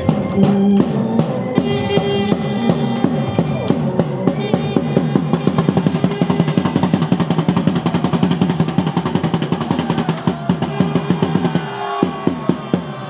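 Stadium cheering-section drums beating faster and faster into a drum roll, over held sustained tones. The drumming stops abruptly about twelve seconds in.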